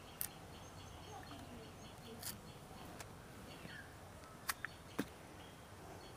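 Faint background of small birds chirping, broken by a few scattered sharp clicks.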